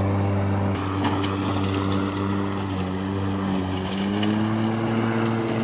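PowerSmart 40V cordless push mower's brushless motor and blade running with a steady, even hum. The pitch sags slightly for a few seconds and comes back up about four seconds in.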